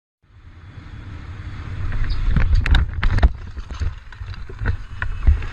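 Low rumble of wind buffeting and road noise from a moving car, rising in level. Several sharp knocks come through it, the loudest bunched about two and a half to three seconds in.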